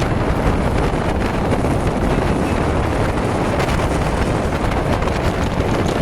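Heavy rain pouring down in a steady rush, with wind buffeting the microphone.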